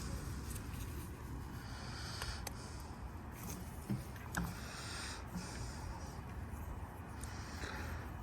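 Faint clicks and scraping of an Allen key working the mini bike's brake bolts loose, over a steady low background rumble.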